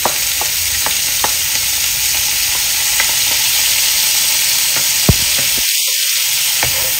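Chopped pickled mustard greens frying in hot oil in a nonstick wok, a steady sizzling hiss, while a nylon spatula stirs them. The spatula taps the pan several times; the sharpest tap comes about five seconds in.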